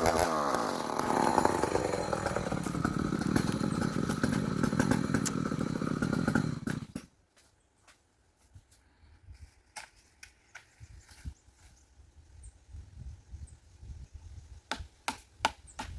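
Two-stroke chainsaw running at high revs, its pitch shifting as it works, then cutting off suddenly about seven seconds in. A few faint knocks follow near the end.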